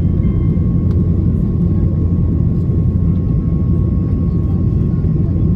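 Steady cabin roar inside an Airbus A330-300 on final approach: the low rumble of airflow and engines, with a thin steady whine over it.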